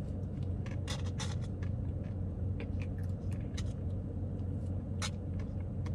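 Steady low hum of a car idling, heard inside the cabin, with scattered light clicks and mouth sounds as soft-serve ice cream is eaten off a plastic spoon.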